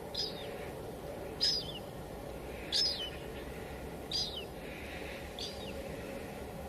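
A bird calling repeatedly: five short chirps, each sliding downward in pitch, a little over a second apart, over a steady hiss of light drizzle.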